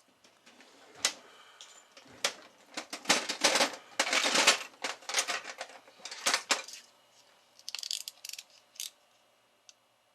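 Small metal objects clinking and rattling as they are handled. There is a dense run of clatter from about two to seven seconds in, then a few lighter clicks near the end.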